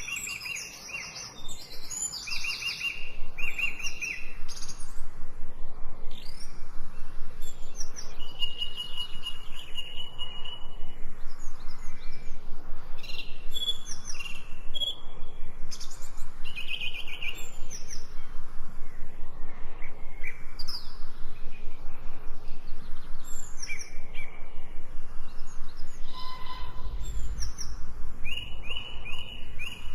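Wild songbirds singing and calling, with several different short chirping phrases repeating and overlapping. A low rumble comes in near the end.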